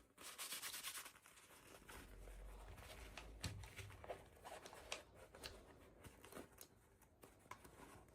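Faint rustling and tearing of packaging being handled by hand, with a brief burst of rustle at the start and scattered small clicks and taps after it.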